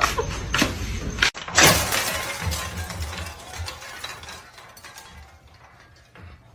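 A sudden loud crash, like something breaking, about one and a half seconds in, followed by scattered clinks and clatter that fade away.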